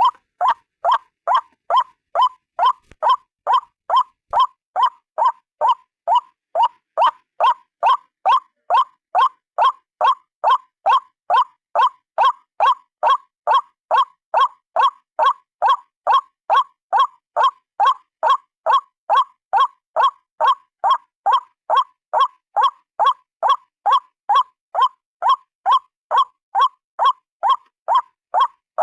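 A single white-breasted waterhen (ruak-ruak) calling: short pitched notes repeated steadily, about two a second, without a break.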